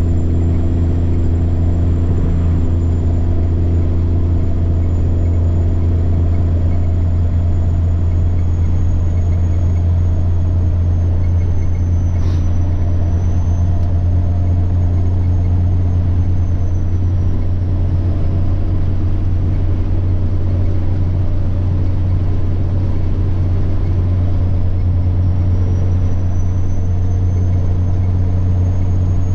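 Semi-truck diesel engine running steadily at cruise with a deep, even drone and a high turbocharger whine over it. The whine sags slightly through the middle and climbs again near the end as the load changes. A single brief click about twelve seconds in.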